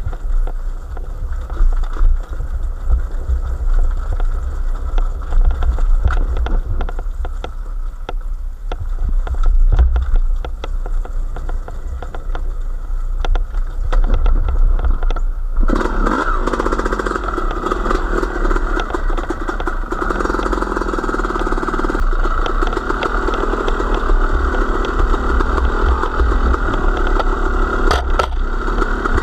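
Low rumbling with scattered knocks, then about halfway in a small engine starts and keeps running steadily.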